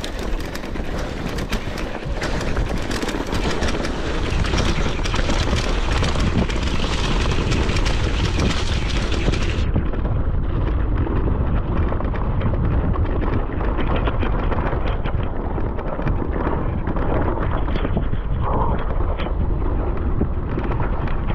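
Steady, loud rush of a moving avalanche of debris, with many small knocks running through it. The sound turns duller about ten seconds in.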